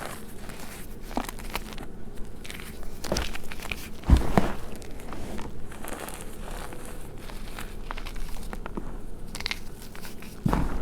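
Blocks of gym chalk being crushed, crackling and crunching, with a sharp crunch about four seconds in and another near the end.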